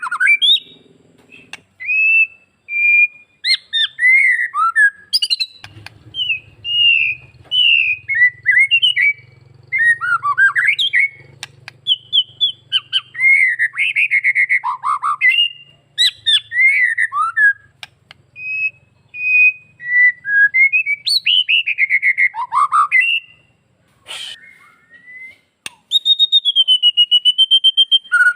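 White-rumped shama (murai batu) singing: a loud, varied run of whistled phrases that slide up and down in pitch, ending in a long, rapid, even trill.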